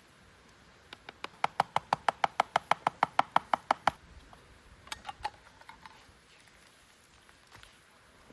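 A rapid, regular series of about twenty sharp knocks, roughly seven a second, lasting about three seconds, followed a second later by a few fainter clicks.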